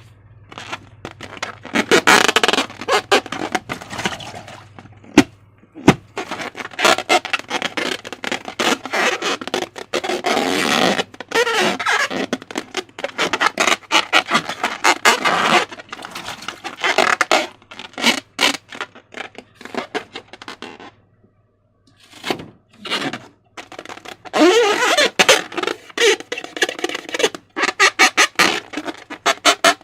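Slime being squeezed and stretched by hand: sticky crackling clicks and wet squelches, with short squeaky, fart-like air-pocket sounds. It stops briefly twice, near five seconds and again a little past twenty seconds.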